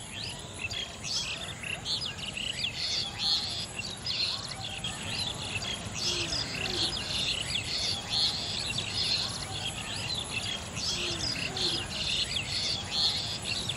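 Many birds chirping and calling together in a dense, continuous chorus of short high chirps, with a few lower, falling calls standing out about halfway through and again near the end.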